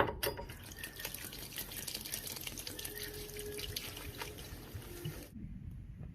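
Water running from a tap into a sink, shut off about five seconds in.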